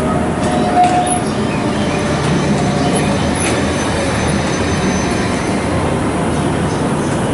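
Slow-moving shunting movement in a rail yard: a small diesel shunter hauling the C58 239 steam locomotive, a steady rumble of engine and rolling wheels. A brief squeal comes about a second in.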